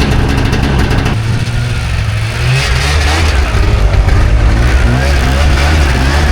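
Snowmobile engine running hard under load while ploughing through deep snow, its pitch rising and falling as the throttle changes.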